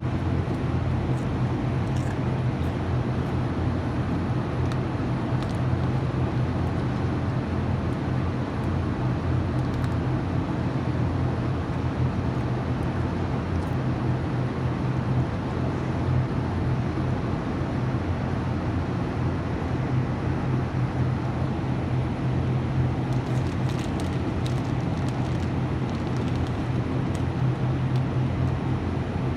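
Steady low rumble and hum of background noise, with a few faint clicks scattered through it.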